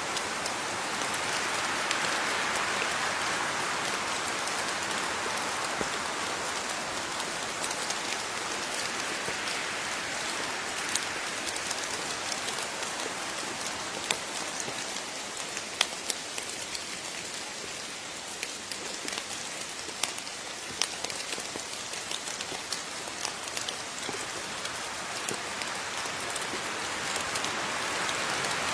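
Steady rain falling, with individual drops striking close by as sharp scattered clicks over the even hiss. It eases slightly in the middle and is fuller again near the end.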